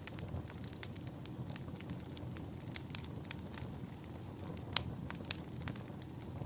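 Wood fire crackling in a fireplace: a low steady rumble with irregular sharp pops and snaps, the loudest a little past the middle.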